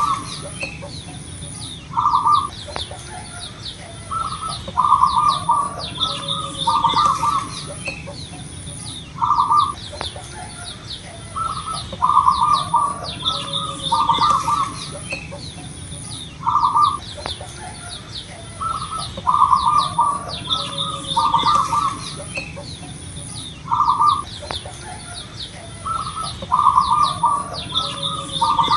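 Zebra dove (perkutut) cooing in short bursts of rolling notes, grouped into phrases, the same sequence recurring about every seven seconds. Higher, fainter chirps of small birds sound behind it.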